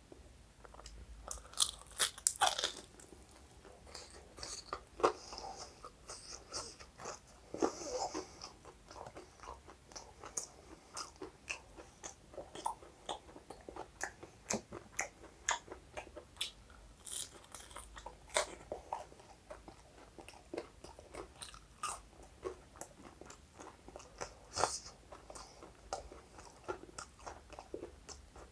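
A person biting and chewing crispy fried chicken pakoras close to the microphone: irregular crunches throughout, the loudest bites about two and five seconds in.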